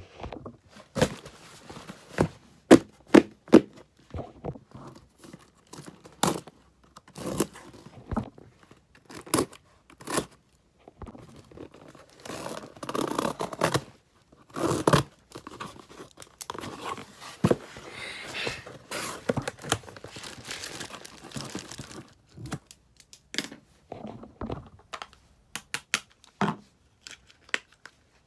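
Packaging being opened by hand: a string of sharp rips and snaps, then about ten seconds of steady crinkling and rustling of wrapping, then scattered handling clicks and taps.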